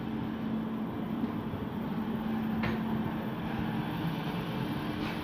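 Train running: a steady rumble with a constant low hum and a faint click about halfway through.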